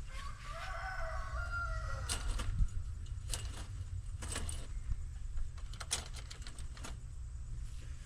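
Poultry call: one drawn-out, wavering call lasting nearly two seconds. It is followed by a series of sharp knocks and taps over a steady low rumble.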